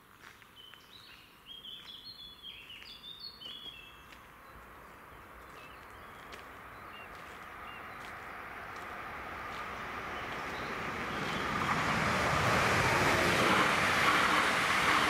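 Škoda RegioPanter electric multiple unit approaching and passing the level crossing: its rumble and wheel-on-rail noise rise steadily over about seven seconds to a loud passing near the end. Birds sing in the first few seconds.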